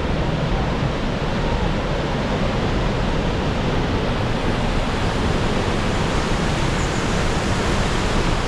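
Rhine Falls, a large waterfall, rushing in a steady, unbroken roar of falling water.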